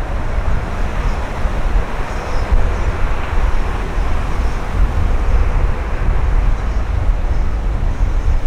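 Steady rushing noise of a jet airliner, with heavy wind buffeting on the microphone.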